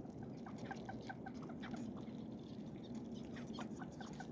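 Ducks giving a run of soft, short calls, several notes a second, faint over a steady low hum.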